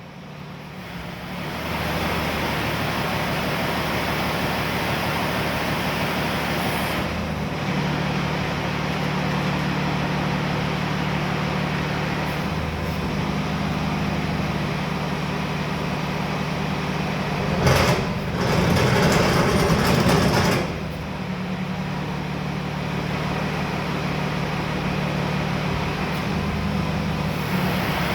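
Paccar PX-8 six-cylinder diesel engine of a Peterbilt 337 truck idling steadily. About 18 s in there is a sharp knock, followed by a louder rushing noise lasting about three seconds.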